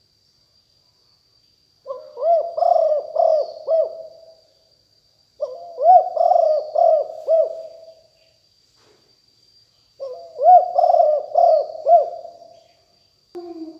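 Spotted dove cooing: three phrases of several low, rolling coos, each about three seconds long, separated by short pauses.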